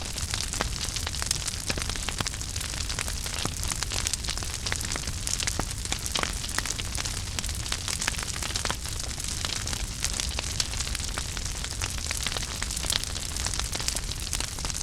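Wood fire in a fireplace burning steadily, with a constant low rumble and hiss and dense, irregular crackles and pops of burning wood.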